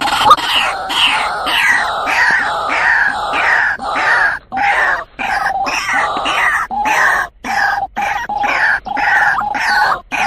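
White-breasted waterhen calling: a long run of rapid repeated call notes, broken by brief pauses every second or so. It is the lure call used to draw a male waterhen.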